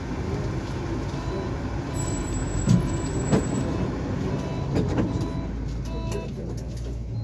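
Tram heard from inside the car as it runs: a steady rumble with a faint whine and several sharp knocks, the loudest about three seconds in.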